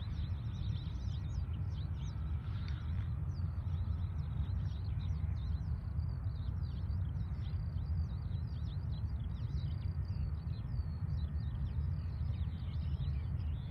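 Small birds chirping busily, many quick high calls one after another, over a steady low rumble.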